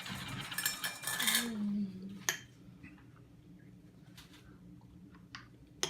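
A spoon scraping and clinking inside a glass pint jar of overnight oats for about two seconds, then a few single sharp clinks.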